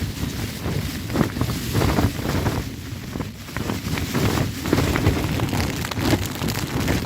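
Storm wind gusting against an Olpro Voyager 2 tent: the fabric flaps and crackles in irregular bursts over a heavy wind rumble on the microphone, surging and easing with the gusts.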